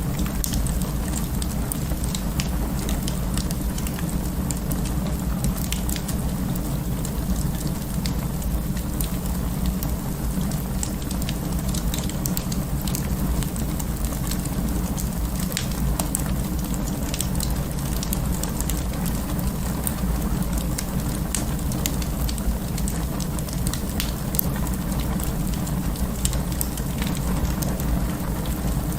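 Wood fire in an open fireplace crackling, with scattered sharp pops and snaps over a steady low rush of the flames.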